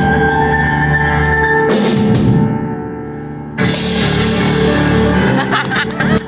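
Live band playing with drums, cymbals and sustained pitched instruments. The sound thins out briefly after a cymbal crash, then the full band crashes back in about three and a half seconds in.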